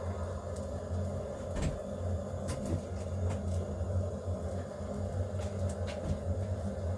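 A steady low hum with a scattered series of light knocks and clicks, like things being handled and set down.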